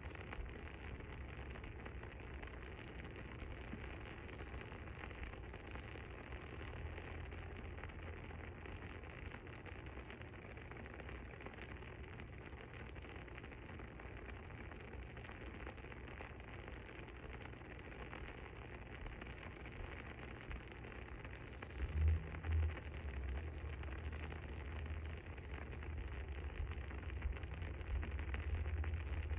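Soft, steady crackling of a burning fire over a low rumble, with two dull low thumps about three-quarters of the way through.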